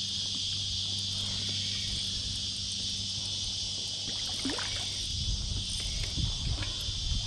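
Steady high buzzing chorus of cicadas singing in the trees. From about five seconds in, irregular low knocks and thumps come in under it.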